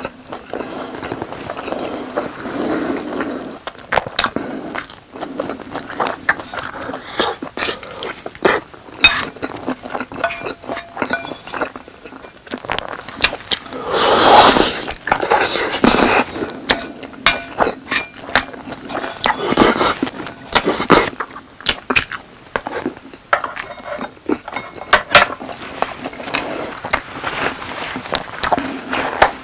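Close-miked chewing and biting of spicy boneless fried chicken and rice: a steady run of wet clicks and smacks, with two longer, louder noisy stretches in the middle.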